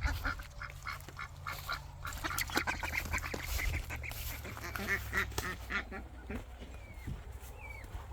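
Domestic ducks quacking in runs of short, quick calls, busiest at the start and again about five seconds in.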